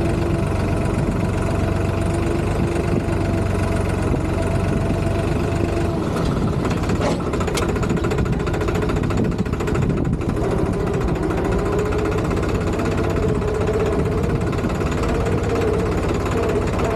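Tractor engine running steadily, its pitch climbing a little about halfway through as the engine speeds up.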